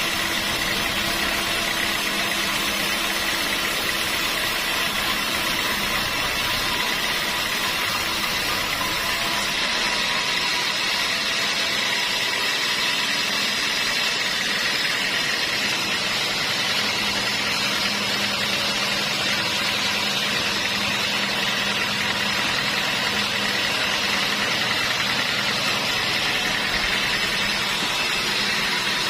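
Sawmill machinery running steadily. About ten seconds in, the sound changes and loses some of its high hiss.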